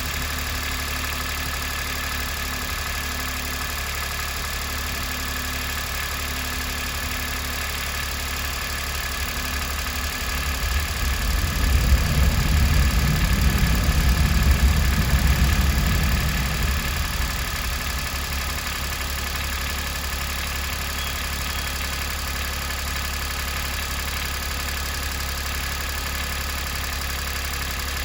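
Worn, high-mileage Daihatsu Atrai Wagon three-cylinder 660 cc engine idling steadily on 15W-50 motorcycle oil. A louder low rumble swells and fades from about ten to seventeen seconds in.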